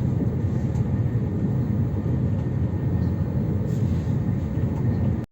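Steady low rumble of an AVE high-speed train running at speed, heard from on board. It cuts off abruptly at the very end.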